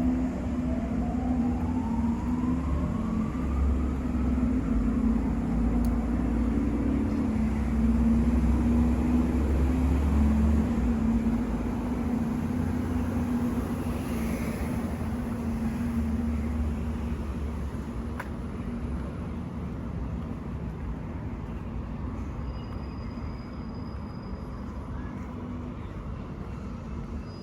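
City street traffic: a large vehicle's engine hums with a low rumble, growing loudest about a third of the way in and then slowly fading as it moves away. A short whine falls and rises again right at the start.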